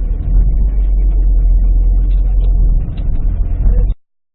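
Steady low rumble of a car on the move, engine and road noise as picked up by a dashboard camera inside the cabin; it cuts off abruptly near the end.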